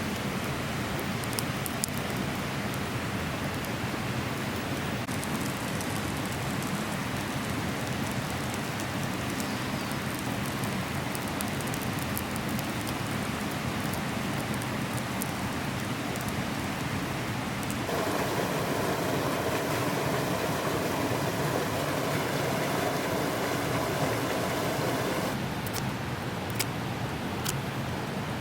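Wood campfire crackling: a steady hiss with scattered sharp pops. About two-thirds of the way through, a louder, fuller rushing noise joins for about seven seconds, then drops away.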